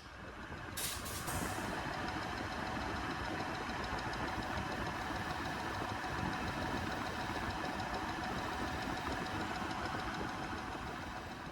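A metalworking machine running steadily. It fades in at the start, with a brief high click about a second in, and fades out near the end.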